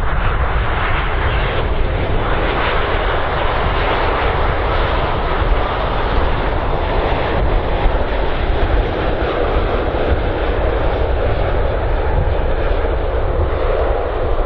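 Boeing 787 Dreamliner jet engines passing low on landing approach: a loud, steady rush that swells slightly through the middle. Wind rumbles on the microphone underneath.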